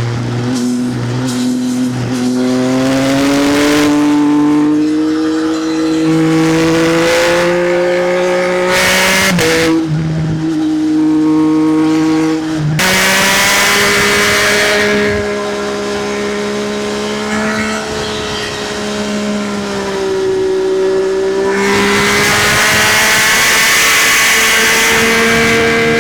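Triumph Speed Triple's three-cylinder engine through an SC-Project exhaust, revs climbing under throttle. It drops sharply at gear changes about nine and a half and thirteen seconds in, then runs at a fairly steady cruise and rises again near the end, with wind rushing past.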